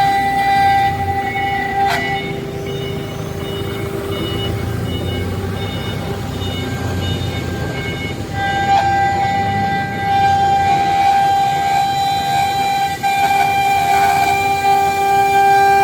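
A 5-axis CNC router's spindle whining steadily as it machines, over a low rumble. The whine drops back about two seconds in and returns louder about eight seconds in, wavering slightly in pitch as it cuts.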